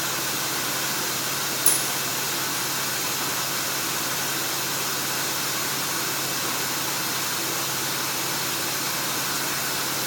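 Steady hum and hiss of running machinery at the CNC stair-stringer router between cuts, with one short click about one and a half seconds in.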